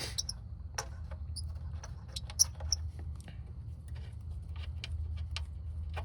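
Scattered small metallic clicks and taps of bolts being handled and threaded in by hand in a car's engine bay, with one sharper click about two and a half seconds in, over a steady low hum.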